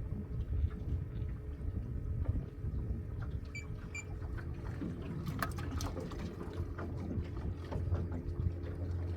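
Boat motor running steadily with a low rumble, water sloshing and a few knocks. Two short high tones come about three and a half and four seconds in.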